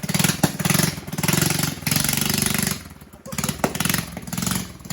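Mini bike's 5 hp Briggs & Stratton single-cylinder engine running and being revved, the throttle opened in long surges with a dip just under three seconds in before it picks up again.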